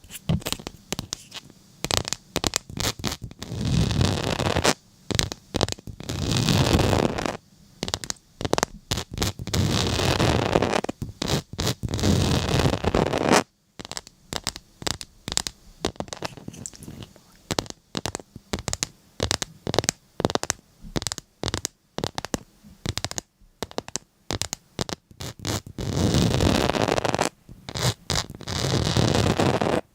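Scratching and rubbing noises: many quick short strokes with several longer stretches of continuous rubbing between them.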